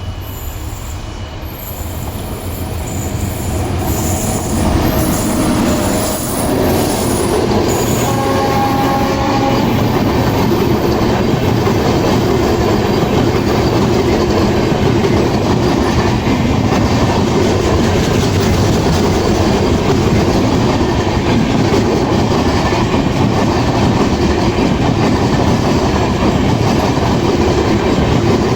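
Electric-hauled train passing close by, its wheels rumbling and clattering on the rails. The sound builds over the first few seconds and then holds steady, with a short pitched tone about eight seconds in.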